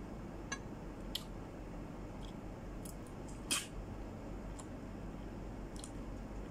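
Wet mouth sounds of a person chewing soft fruit: several short smacks and clicks, the loudest about halfway through, over a low steady hum.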